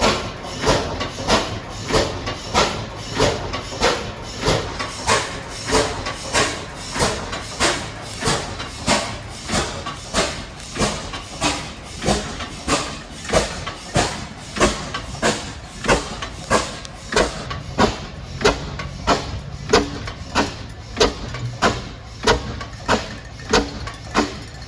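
A large 200 hp Western Machinery engine running slowly and evenly, each stroke giving a sharp, hissing exhaust beat, about three beats every two seconds, over a steady low hum.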